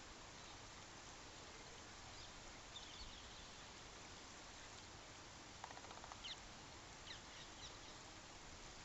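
Faint short bird chirps, a few scattered apart, over a steady hiss; a little past halfway, a brief rapid rattling call.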